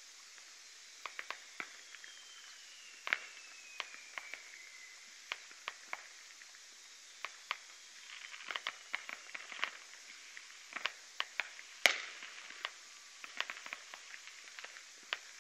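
Fireworks and firecrackers going off, many sharp, irregular pops and bangs, with the loudest bang about twelve seconds in. A thin whistle falls in pitch over a few seconds near the start.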